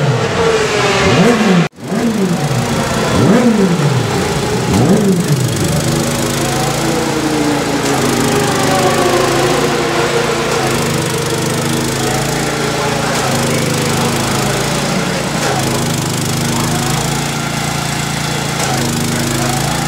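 Race motorcycle engines blipped in the pits, revving sharply up and down several times; from about six seconds in, an engine runs at a steady, even idle.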